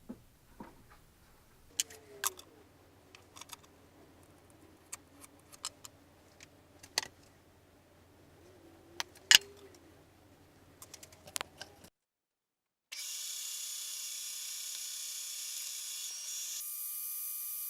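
Scattered sharp clicks and clacks of small metal tools and parts being handled. After a brief break, a steady machine sound with a high whine starts and shifts in tone near the end.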